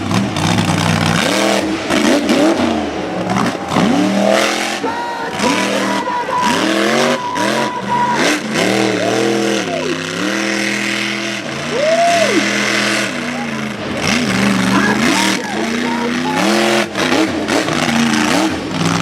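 Mega truck engine revving hard over and over, its pitch climbing and dropping in repeated bursts.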